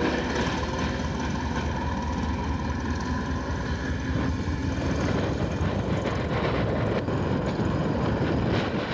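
Train running steadily on the rails: a continuous rumble with a few faint steady tones.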